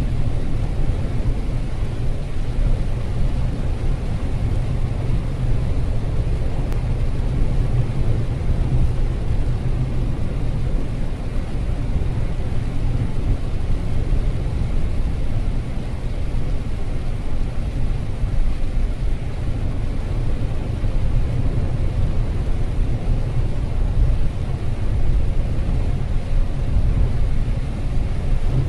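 Car driving in light rain: a steady low rumble of road and engine noise, with a fainter even hiss above it.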